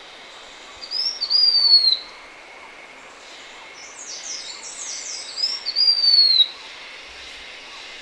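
Blue-winged minla singing: two phrases, each a short high note followed by a long thin whistle that slides downward, with a fainter run of quick high notes between them, over a steady background hiss.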